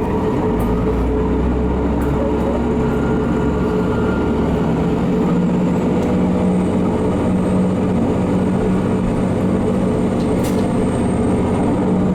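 Noto Railway diesel railcar running, heard from inside the passenger cabin: a steady engine and running rumble with a low hum that shifts slightly partway through.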